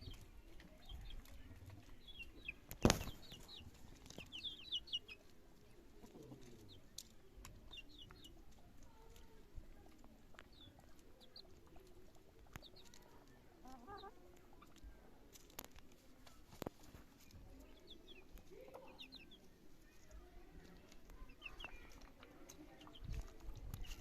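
Chickens clucking quietly, with short bursts of high chirps. Scattered light clicks, and one sharp knock about three seconds in.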